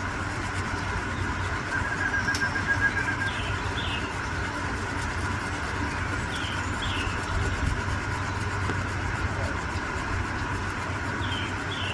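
Outdoor background of a steady low rumble, with a few pairs of short bird chirps and a brief rapid trill about two seconds in.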